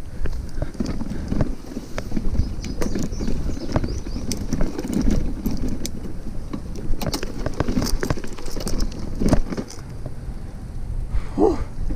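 Bicycle being ridden over a rough trail: a steady low rumble from the tyres, with frequent clicks and rattles from the bike, and wind on the microphone.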